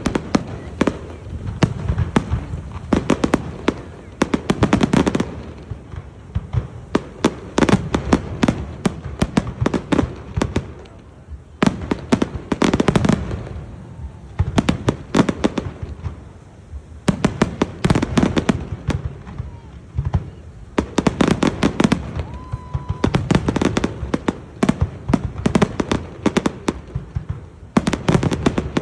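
Fireworks display: rapid clusters of sharp bangs and crackling every few seconds, with a low rumble in between.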